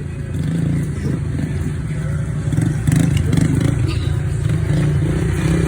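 Pit bike engine running and revving, getting a little louder partway through.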